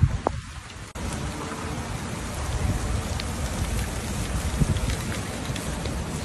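Heavy rain falling on pavement and cars, with scattered sharp drop ticks and a low, uneven rumble underneath.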